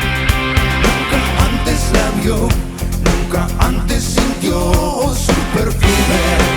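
Rock band music: drums, bass and electric guitar playing together, with a bending lead line in the middle of the passage.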